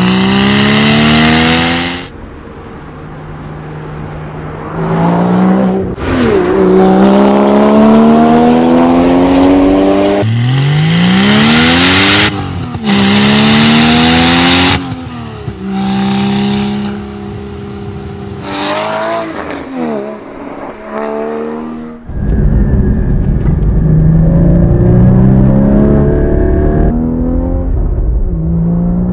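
Porsche Cayman GT4's 3.8-litre flat-six engine revving hard under acceleration, its pitch climbing again and again through the gears and falling between. The sound cuts abruptly between several separate recordings.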